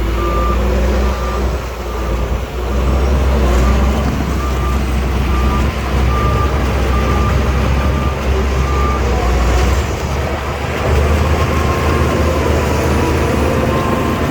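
Shantui DH17 bulldozer's diesel engine running with a deep rumble while its reversing alarm beeps about twice a second; the beeping stops about nine seconds in and the engine carries on.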